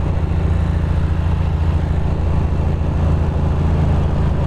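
Motorcycle engine running steadily at an even cruising speed, heard from the rider's position.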